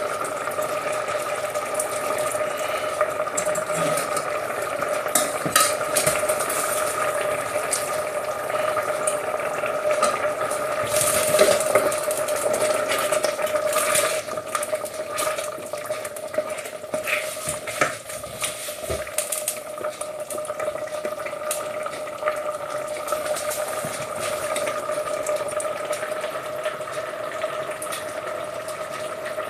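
Risotto simmering and sizzling in a pan as it is stirred with a spoon that clicks and scrapes against the pan now and then, with stock just added to the rice. A steady hum runs underneath.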